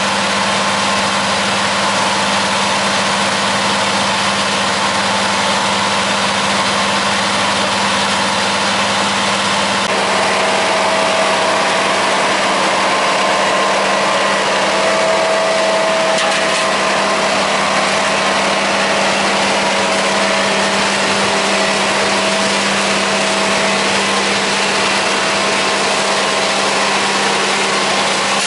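Road construction machinery engine running steadily, with a constant low hum. A higher whine joins about a third of the way in.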